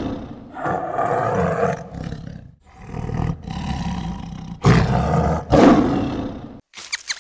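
Big cat roaring: a series of loud, rough roars of about two seconds each, with short breaks between them. Near the end the roars stop and a quick run of short, high calls begins.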